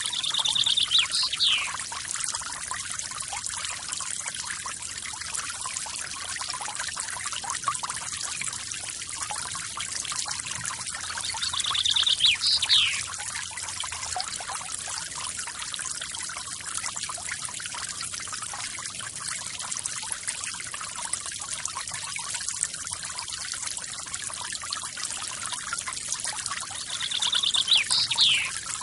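Steady splashing and trickling of a forest waterfall. Three times, about 13 to 15 seconds apart, a bird gives the same short call: a held high note and then a quick falling whistle.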